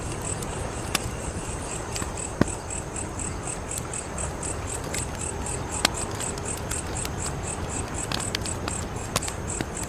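Wood fire burning with a steady low rustle and a few sharp crackling pops, over the even, rapid chirping of crickets.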